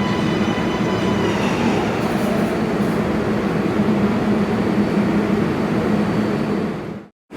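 R142A subway train running along the track: a steady, loud rumble of wheels and car body, with high ringing tones that fade out over the first second or two. The sound cuts off abruptly near the end.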